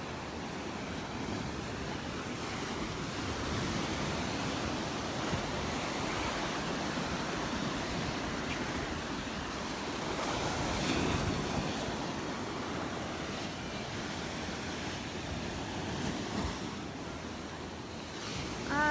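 Gulf of Mexico surf washing up on the beach in a steady wash of waves that swells now and then, with some wind on the microphone.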